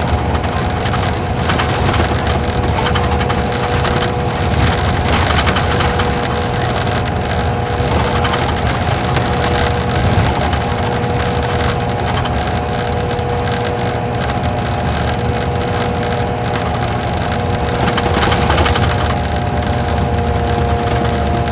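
Isuzu Gala coach with a V-type engine heard from inside the cabin while driving: steady engine and road noise with a constant two-note whine, and frequent small rattles and creaks from the cabin.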